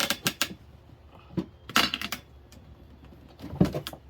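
Metal clinking and knocking of a tire iron against a steel rim and a manual tire changer, as a stuck tire bead is worked. There is a quick run of clinks at the start, another cluster about two seconds in, and a heavier knock near the end.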